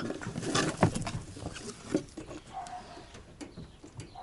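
Scratching, scuffling and light knocking in a rabbit hutch as a rabbit moves about and is handled in its cage, in an irregular patter of small knocks.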